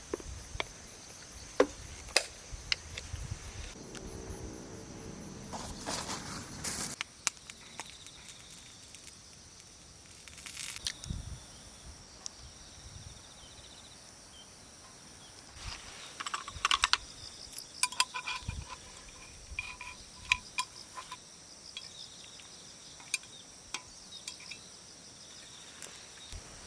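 Insects trilling in a steady high-pitched tone, with scattered sharp clicks and knocks of things being handled.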